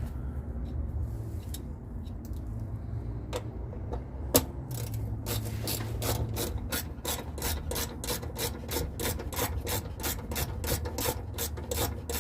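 Hand ratchet wrench clicking in a steady run of about three to four clicks a second while a rear shock absorber bolt is tightened, with one sharp knock about four seconds in. A low steady hum sits underneath.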